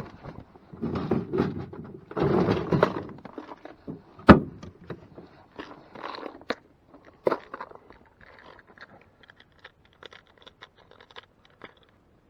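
Irregular knocks, crunches and scrapes of handling noise, with one sharp knock about four seconds in, thinning to light ticks near the end.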